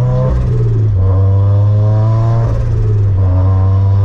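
Turbocharged 2013 Scion FR-S's flat-four engine with a catless front pipe and aftermarket cat-back exhaust, accelerating through the gears. The revs climb, drop at a shift about a third of a second in, climb again, drop at a second shift about two and a half seconds in, then climb once more.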